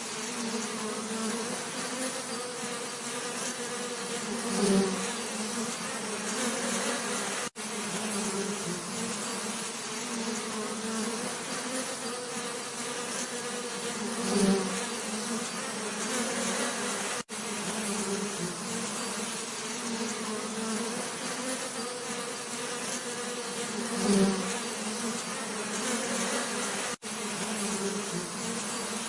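Bees buzzing steadily, with a low hum and a higher overtone, swelling louder briefly about every ten seconds as a bee passes close. The sound cuts out for an instant three times.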